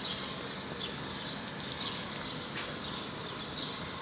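Small birds chirping over and over, with a steady background hiss.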